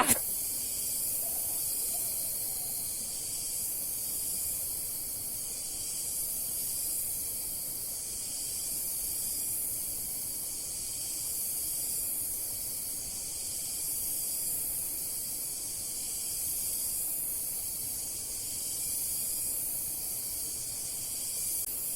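A steady, high-pitched hiss that gently swells and eases every couple of seconds, with nothing else over it.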